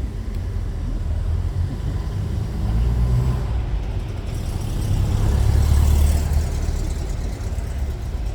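Low engine rumble of classic cars, swelling about three seconds in and again, louder, around five to six seconds in, as vehicles pass close by.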